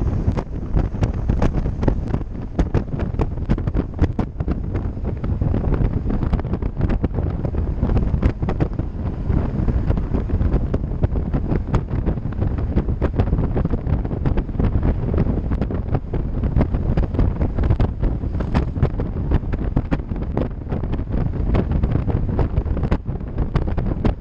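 Wind buffeting the microphone of a riding cyclist's camera, a loud low rumble, with many small knocks and rattles scattered through it.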